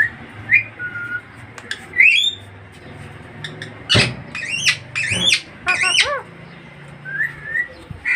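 Pahari parrot (Alexandrine parakeet) calling: a run of short, sharp squawks and whistled calls, some sweeping up in pitch and some down, coming in clusters with brief gaps between them.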